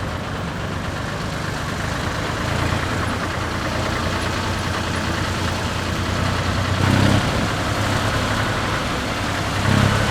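Deutz F3L514 tractor's air-cooled three-cylinder diesel running steadily, swelling louder briefly about seven seconds in and again near the end.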